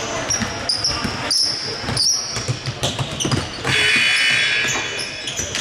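Basketball game in a gym: ball bouncing on the hardwood, short sneaker squeaks and a crowd of voices echoing in the hall, with the crowd getting louder about two thirds of the way through.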